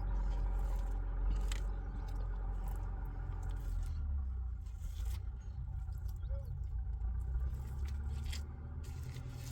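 Tractor engine running steadily, its low drone shifting slightly about four seconds in, with intermittent scraping and clicking over it.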